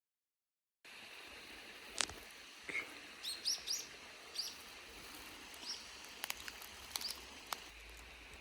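Birds chirping outdoors: short, scattered calls and a few sharp clicks over a faint steady background hiss. The sound starts after about a second of silence.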